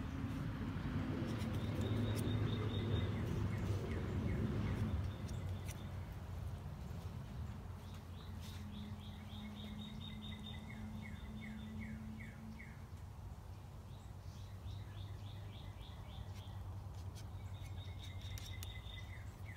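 A songbird singing several short trills of quick, evenly repeated chirps, over a steady low rumble.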